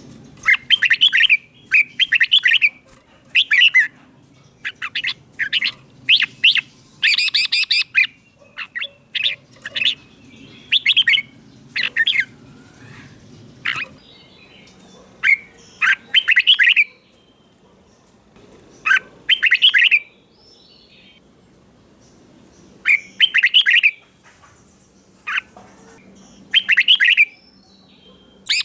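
Red-whiskered bulbul singing: short, bright warbling phrases, close together for the first half and then coming singly a few seconds apart.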